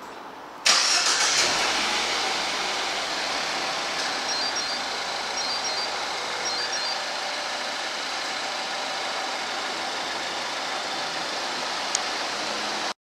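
MINI Paceman (R61) engine starting: it catches suddenly about a second in, its revs flare briefly and ease down, and it settles to a steady idle. A single sharp click near the end.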